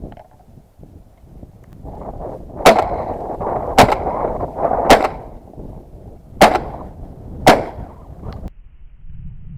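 Five shotgun blasts from a Stoeger 2000 semi-automatic 12-gauge, fired about a second apart, over a rushing noise that stops suddenly near the end.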